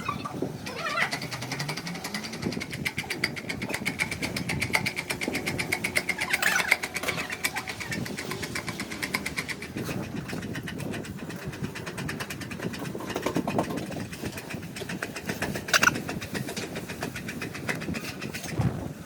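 An engine running steadily with a fast, even beat, with a couple of sharper knocks over it.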